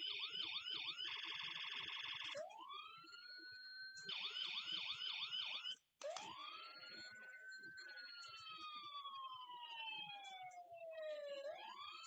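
Toy trucks' electronic sirens sounding in turn: a fast repeating yelp, a rapid warble, and a wail that rises and then slowly falls. Two sirens overlap at times, and one cuts off abruptly about halfway through.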